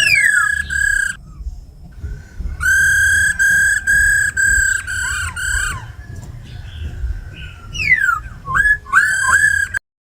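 Laughingthrush song: runs of loud, clear whistled notes repeated evenly, a pause, then a few quick falling slurred notes and another short run of notes. It cuts off abruptly near the end.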